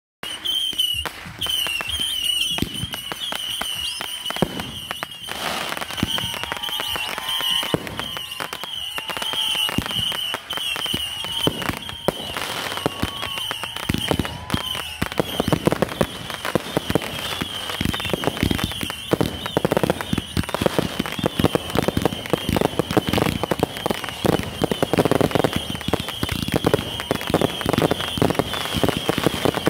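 Fireworks display: a rapid, continuous string of bangs and crackling bursts over a steady high-pitched tone, starting abruptly and growing denser and louder about halfway through.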